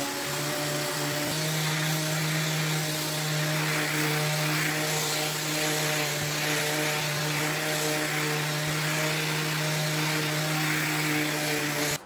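Electric power sander running steadily on the wood of the table, its hiss swelling about once a second as it is worked back and forth; the motor cuts off abruptly at the end.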